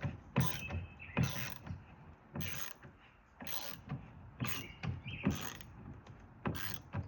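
A sliding-door lock being forced into its hole in the door: a run of short scraping knocks with a brief squeak now and then, about one a second, as the part binds and is worked in.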